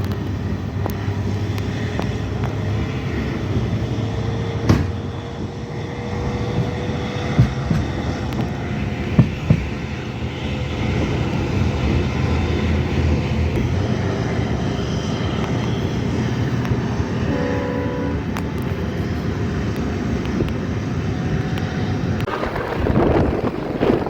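Train in motion: a steady rumble and rushing noise with a faint, slowly rising whine and a few sharp knocks.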